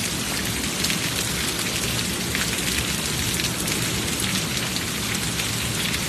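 Heavy rain falling steadily, with many small drop hits close by.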